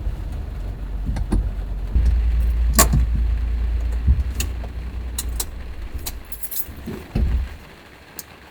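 Low vehicle rumble with keys jangling and scattered light clicks; the rumble stops about seven and a half seconds in.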